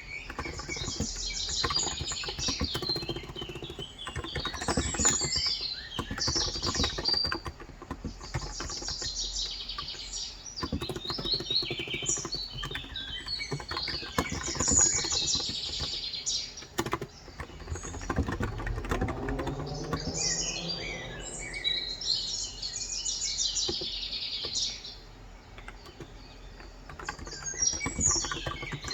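Birds chirping and twittering outside, over the soft clacking of a Cox Endeavour electro-capacitive keyboard with 35 g keys being typed on. Typing and birdsong both thin out for a couple of seconds near the end.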